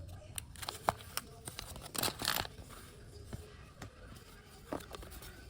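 Lego pieces being handled and pressed together: scattered small plastic clicks, with a short rustle about two seconds in.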